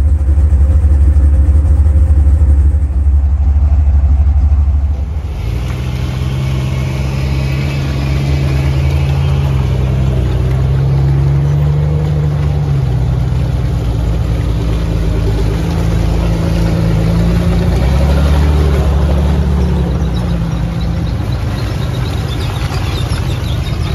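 Off-road Jeep engine running under load, its pitch rising and falling as the throttle is worked. A heavy deep rumble for the first five seconds gives way to a clearer engine note about five seconds in.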